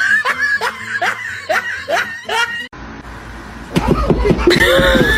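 Laughter: a quick series of short bursts, each rising in pitch. About two and a half seconds in it cuts off abruptly, and a steady low rumble follows with louder voice-like sounds over it.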